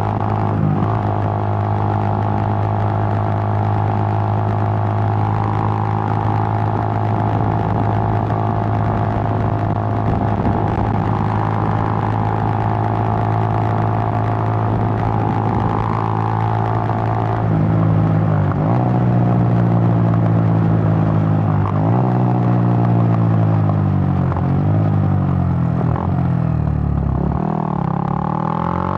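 Suzuki GN125's single-cylinder four-stroke engine running at steady revs, then, from a little past halfway, the revs drop and pick up again several times.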